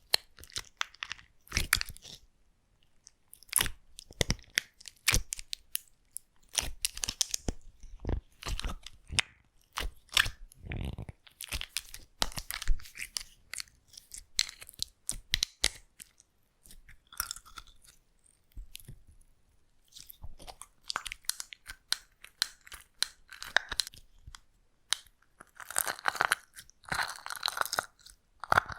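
Slime being squeezed and pressed by hand close to the microphone, giving many sharp, irregular clicks and pops. The sounds thicken into a denser crackle a couple of seconds before the end.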